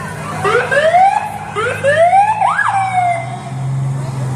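Emergency-vehicle siren whooping in a few rising sweeps. The last sweep peaks and glides down about three seconds in, over a truck engine's steady low running.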